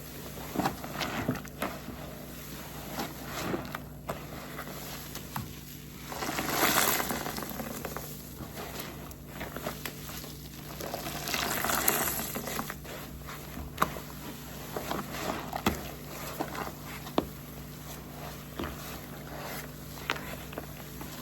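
Wet waffle car-wash sponge soaked with detergent being squeezed and wrung by hand: foam squelching and crackling as liquid is pressed out. There are two longer squeezes around the middle and many short squishes and clicks between them.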